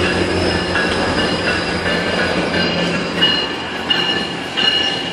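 GO Transit commuter train rolling slowly into the station, its steel wheels squealing on the rails in steady high-pitched tones over a low engine drone that fades about three seconds in.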